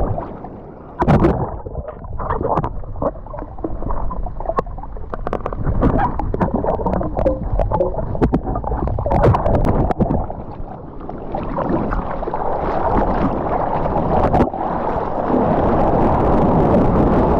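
Seawater sloshing, gurgling and splashing right at the microphone, with many small splashes and knocks over a deep rumble of water and wind.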